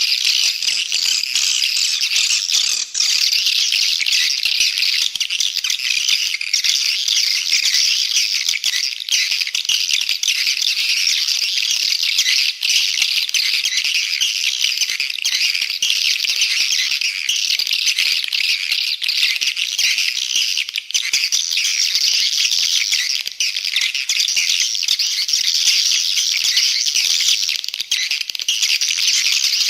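Many edible-nest swiftlets twittering in a dense, unbroken chatter: a swiftlet call recording of the kind played to lure swiftlets into a nesting house.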